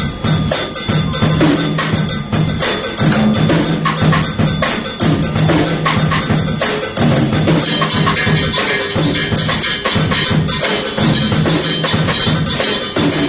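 Drum kit played in a fast, continuous Latin groove adapted from timbale patterns, with rapid drum strokes, a low drum note and bright metallic hits.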